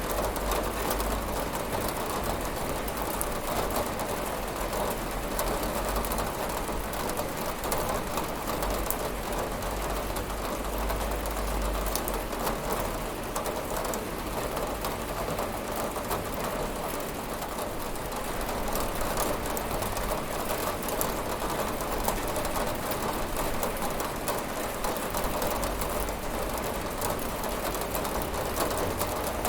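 Steady rain falling on a window: an even, unbroken hiss with a low rumble underneath.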